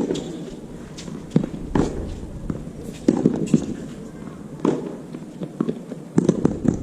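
Tennis rally: racquets striking the tennis ball and the ball bouncing on the court, an irregular series of sharp hits about every second.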